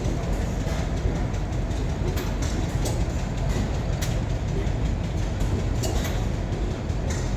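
A heavy engine running: a steady low rumble with scattered sharp clicks.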